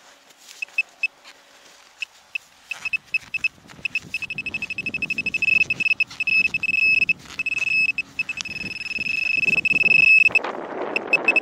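Metal detecting pinpointer beeping at a high pitch: a few scattered beeps, then a steady run of beeps that speeds up until it becomes a nearly continuous tone about ten seconds in, as the probe closes on a metal target in the dug hole. Soil scraping and rustling underneath, louder near the end.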